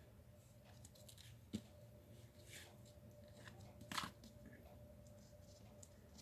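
Faint handling noises of card-making supplies being worked on a desk: light rustles and ticks, a small knock about a second and a half in, and a sharper click about four seconds in.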